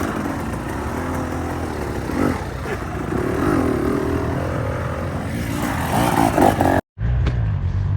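Off-road motorcycle engine revving up and down as a rider works up a climb. After a sudden break about seven seconds in, a steadier low engine sound follows.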